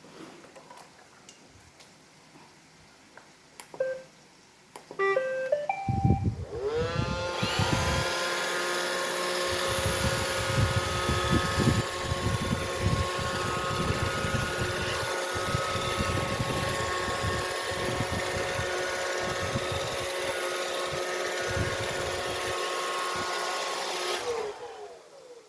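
iRobot Roomba robot vacuum, just reassembled, switched on for a test: a short rising run of start-up beeps about five seconds in, then its motor spinning up to a steady whine with irregular low knocks under it, winding down shortly before the end.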